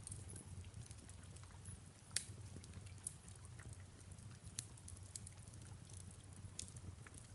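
Fireplace crackling faintly, with scattered sharp pops over a low steady rumble and a soft hiss of rain.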